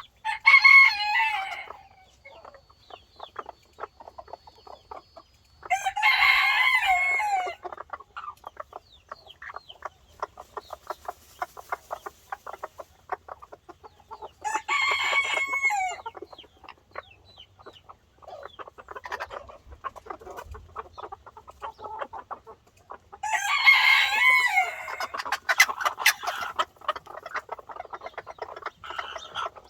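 A rooster crowing four times, each crow lasting one and a half to two seconds, with chickens clucking between the crows.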